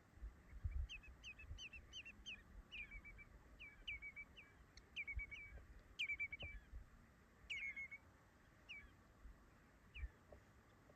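A bird calling over and over: short sharp notes, many ending in a quick stuttering trill, which come thinner and further apart toward the end. Low, uneven rumble underneath.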